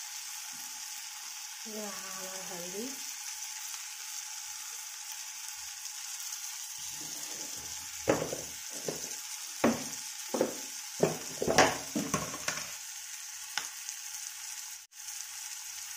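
Peas and tomato frying in oil in a kadhai, a steady sizzle, with a run of sharp clicks and knocks of a utensil against the pan from about eight to thirteen seconds in.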